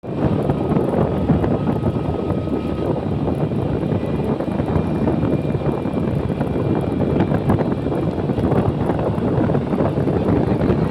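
Steady rush of wind buffeting the microphone on a moving sport motorcycle, with the bike's engine running underneath.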